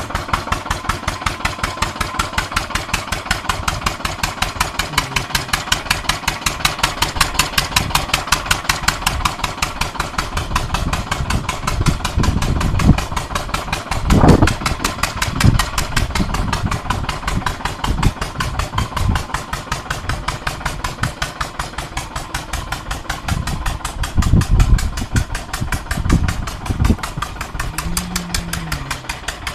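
Farm engine running steadily at a slow, even beat of about seven firing pulses a second, with one louder thump about halfway through.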